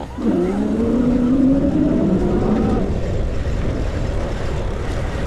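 Wind rushing over the microphone on a moving bike, with a motor's hum that rises quickly, then slowly falls away over about three seconds.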